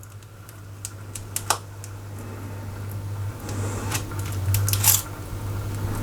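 Rexel LV250HS laminator's motor running and its cogs turning, a steady low hum under irregular clicks and crunching, growing louder after a few seconds: a jammed laminating pouch is being chewed in the rollers.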